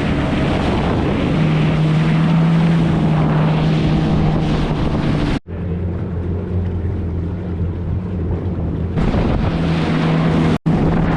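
A Yamaha FX HO jet ski's four-stroke engine running under way, a steady hum under wind on the microphone and rushing water. About five seconds in the sound cuts off abruptly to a quieter, lower engine drone, and the rush comes back near the end.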